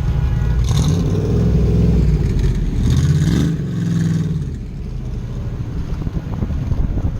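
Sports car engines revving hard, rising and falling in pitch twice in the first half, then dropping back toward idle.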